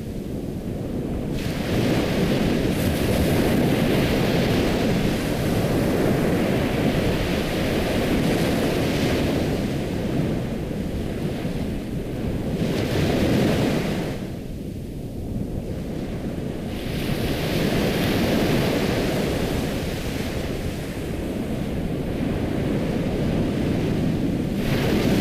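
Ocean waves washing onto a shore, surging in long swells with a brief lull about halfway through.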